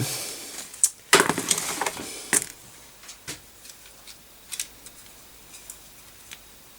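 Clicks and knocks of computer hardware being handled on a bench, a few loud sharp ones in the first couple of seconds, then scattered lighter clicks.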